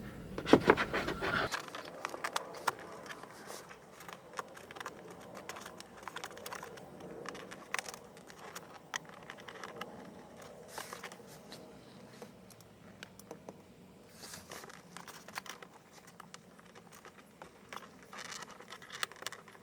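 Hands working a dashcam power cable into gaps behind plastic car interior trim: scattered light scrapes, clicks and rustles, busiest in the first couple of seconds.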